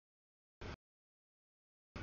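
The audio cuts out to dead silence, broken by two short snatches of noise from a freight train rolling past, each about a sixth of a second long: one just over half a second in and one at the end.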